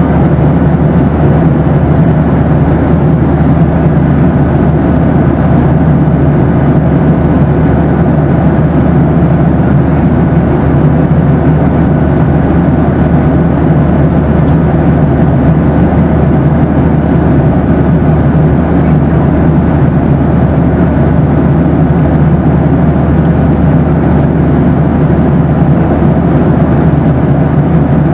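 Steady cabin noise of a Boeing 737 in flight: an even, deep rush of engines and airflow heard inside the cabin, with a few faint steady hums above it.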